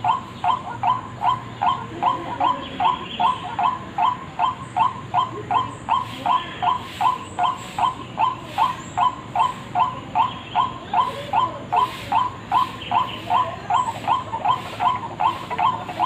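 White-breasted waterhen (ruak-ruak) calling, played as a bird-trapping lure: a steady run of short, repeated notes at about three a second.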